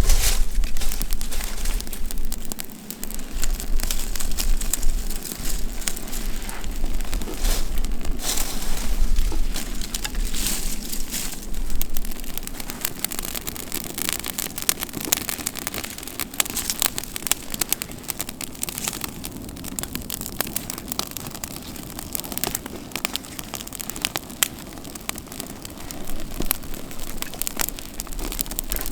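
Wood campfire crackling: irregular pops and snaps over a steady hiss, louder through the first half and settling quieter after.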